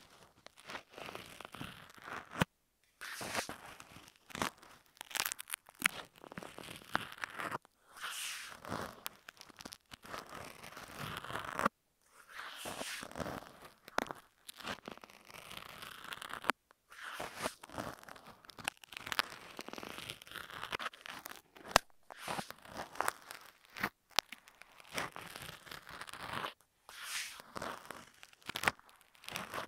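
Ear pick scraping and scratching directly on an earphone microphone: irregular crunchy, crackling strokes broken by short pauses.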